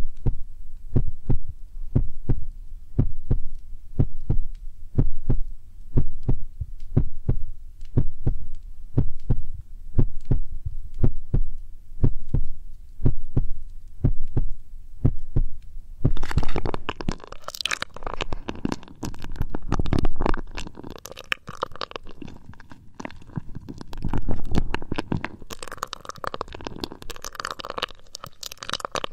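Fingers tapping on ear-shaped binaural microphones to imitate a heartbeat: soft, low double thumps in a steady rhythm, about one beat a second. About sixteen seconds in, this gives way to louder, crackly rustling close to the microphones.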